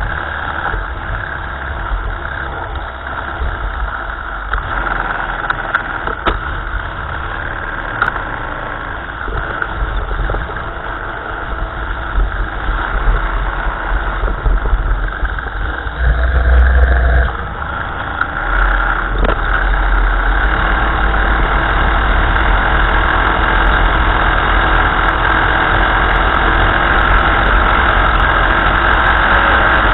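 1955 Ferguson tractor engine running, picked up close through its steering column. It surges briefly about two thirds of the way through, then runs louder and steadier to the end.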